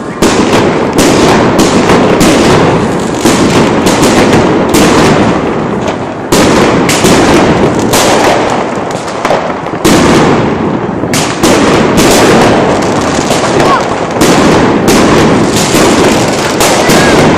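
Fireworks going off in a dense run of loud bangs and crackles, with a fresh volley starting about every two to three seconds.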